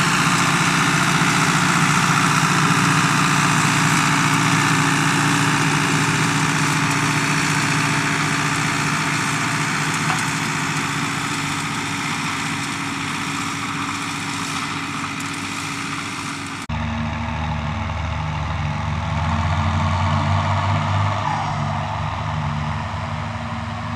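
Farm tractor engine running steadily with a broad mechanical hiss, then, about two-thirds of the way in, an abrupt change to a different, deeper-sounding engine.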